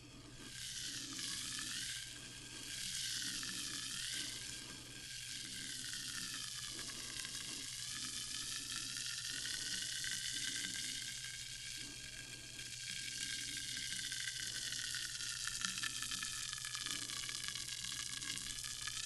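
Sparkling water fizzing: a dense, steady crackle of tiny bubbles bursting, its tone slowly wavering.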